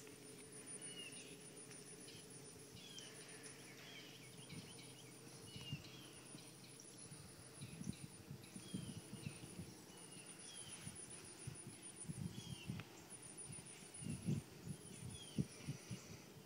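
A bird chirping over and over, short notes that slide downward, with a faint high pulsing hum behind it. Low rustling thumps come in from about five seconds in and are loudest near the end.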